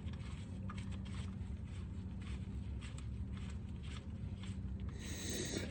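Faint scattered clicks and scrapes as the oil drain plug is threaded back into the pan by hand, over a steady low hum, with a short hiss near the end.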